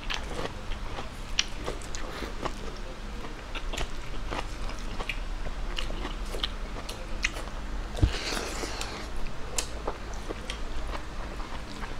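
Close-up chewing and lip-smacking as a person eats chicken adobo and rice by hand, with many short wet clicks and a brief louder burst of noise about eight seconds in.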